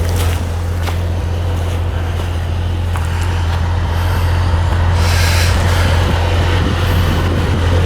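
Suzuki SJ off-roader's engine running steadily with a deep, even hum, with a brief hiss about five seconds in.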